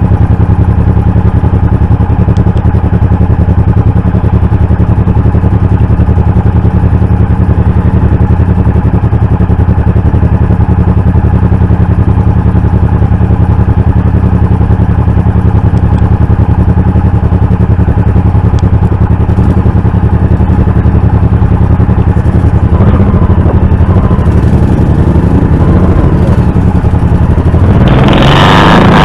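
Honda V-twin motorcycle engine running at a steady cruise. Near the end another vehicle passes close by, briefly louder than the engine.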